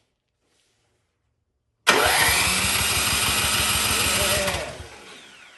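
Cub Cadet snowblower engine being spun over by its electric starter for a compression test, with the gauge screwed into the spark plug hole. About two seconds in, a loud, even cranking starts at about eight pulses a second and runs for about two and a half seconds, then spins down as the starter is released.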